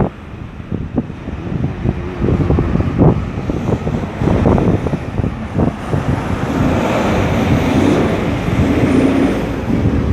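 Road traffic at a roundabout: vehicles driving past in a continuous rumble, with one engine, likely a truck or bus, swelling louder about two-thirds of the way through and then passing.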